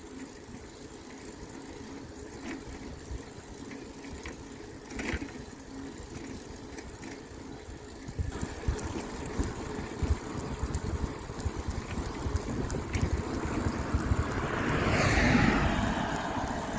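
Outdoor road noise while cycling, with wind buffeting the microphone, getting stronger about halfway through. Near the end a vehicle goes past, its noise rising and then falling away.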